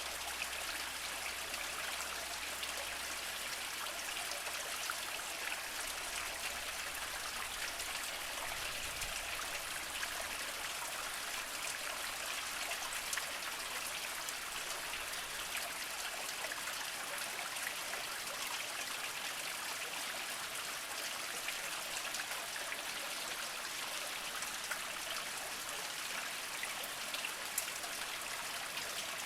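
Small mountain spring trickling steadily over mossy rocks: a continuous flow of water dotted with small splashes and drips.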